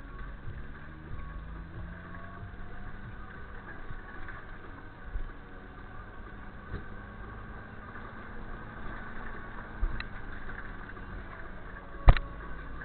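A steady low hum like an engine running, with a few light thumps and one sharp knock about twelve seconds in.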